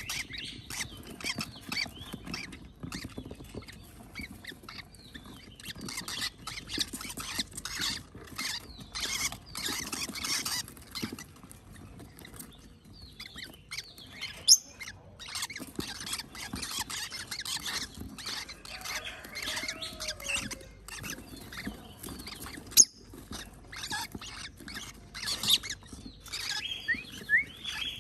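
Baby parrot chicks begging for food, a dense run of rapid raspy squawking calls. Two sharp clicks stand out partway through.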